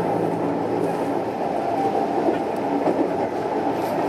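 Tokyo Metro 06 series electric train running steadily, heard from inside the car: continuous wheel-on-rail rolling noise with a low, steady hum underneath.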